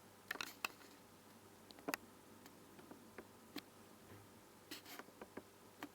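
Faint, irregular small clicks and taps of a soldering iron and tools on a circuit board during hand soldering.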